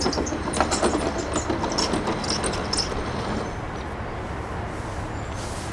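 Lawn-Boy mower's Tecumseh four-stroke engine running steadily, with clicking and rattling handling noises over it for the first three seconds or so.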